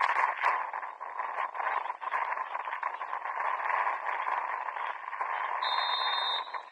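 Dense, muffled hubbub of pitch-side activity: players' and bench voices blending with the play. Near the end comes one steady referee's whistle blast of about a second.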